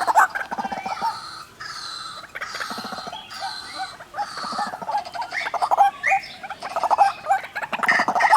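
White-breasted waterhens, male and female, calling: a loud, rapid run of harsh croaking notes that grows busier from about halfway through.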